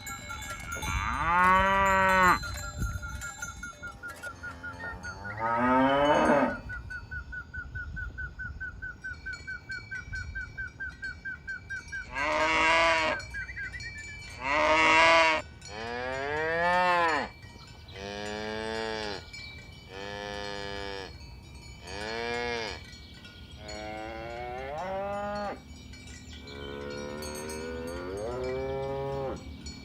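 Cattle mooing over and over, about ten separate calls that each rise and fall in pitch and last a second or so. Through the first half a steady bell-like ringing tone pulses several times a second.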